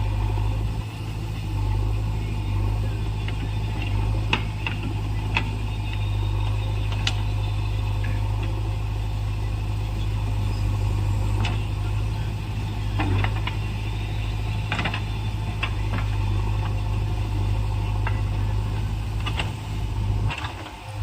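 JCB backhoe loader's diesel engine running steadily, with scattered short clicks and knocks. The sound dips briefly near the end.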